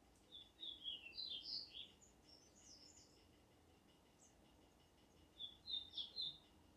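Faint songbird chirping: two runs of quick, high chirps, a longer one at the start and a shorter one near the end.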